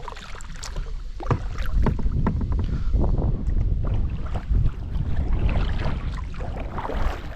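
Kayak paddling on a river: irregular paddle splashes and knocks, with wind rumbling on the microphone.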